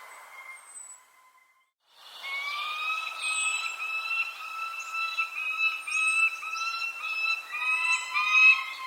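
Birds calling: short, high chirps over a sustained whistle-like tone that shifts slightly in pitch about twice a second. The sound drops out almost entirely for about a second near the start, then comes back.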